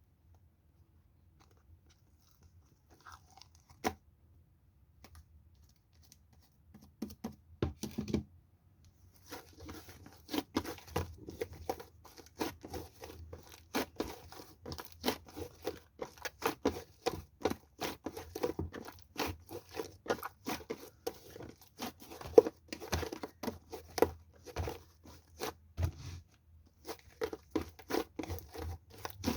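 Close-up crackling and crunching: a few scattered crackles at first, then from about nine seconds in a dense, rapid run of crackles and crunches.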